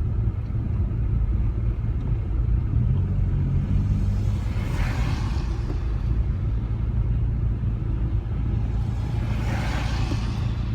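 Steady low engine and road rumble inside a Rover 45's cabin, moving slowly in traffic. A hiss swells and fades twice, about five seconds apart.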